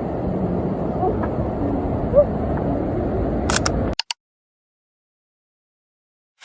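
Steady outdoor background noise with faint voices. It cuts off abruptly with a few clicks about four seconds in, followed by complete silence.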